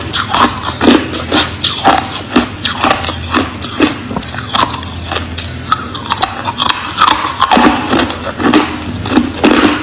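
Close-up crunching of crushed ice between the teeth, with sharp crisp crunches coming about twice a second in an irregular chewing rhythm.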